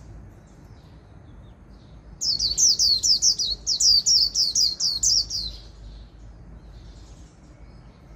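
A white-eye (vành khuyên) singing its fast 'líu' song: a run of high, rapid, downward-sweeping notes, about four a second, starting about two seconds in and lasting about three seconds. Faint high twitters come before and after.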